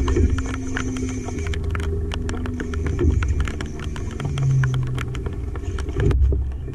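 Steady rain, with many sharp drops ticking on the camera and boat over a low rumble and a faint hum that shifts in pitch now and then.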